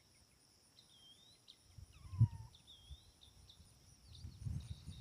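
Songbirds chirping with short whistled phrases over a steady high buzz of insects. A low thud about two seconds in, and more low knocks near the end.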